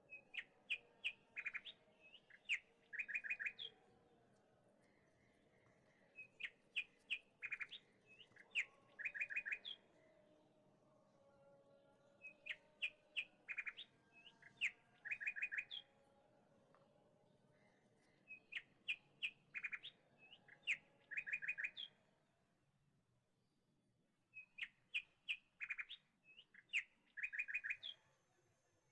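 Birdsong: a phrase of quick high chirps ending in a rapid trill, repeated nearly identically five times about six seconds apart.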